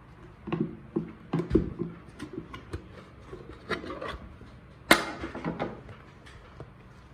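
Kitchen items being handled and set down: an irregular run of light knocks and clacks, with one sharper clack about five seconds in.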